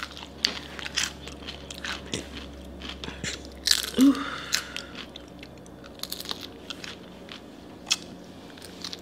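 Close-miked crunching and chewing of crisp food bitten off in small pieces, with many short, sharp crackles. A short hum comes about four seconds in.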